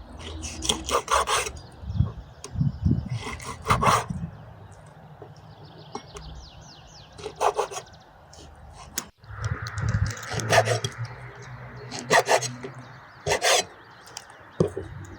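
Short rasping, scraping strokes, each about half a second long, come at uneven gaps of one to three seconds.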